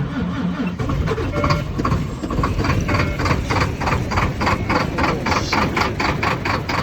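Volvo D13 13-litre inline-six diesel truck engine running moments after a cold start without the preheat (glow plug) feature, uneven for the first second or two and then settling into a steady idle with a regular diesel clatter of about five or six knocks a second.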